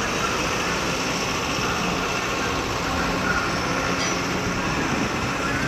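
A train running past with a steady, even rolling noise.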